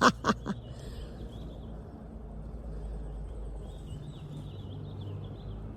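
Faint bird song, thin chirping warbles that come and go, over a steady low rumble of outdoor background noise.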